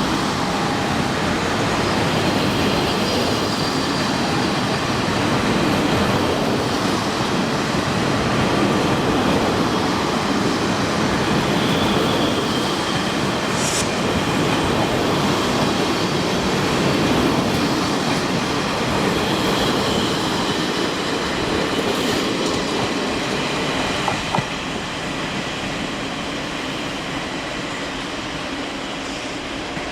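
A Taiwan Railways train running past on the track, a steady loud noise of wheels on rail that eases off a little near the end.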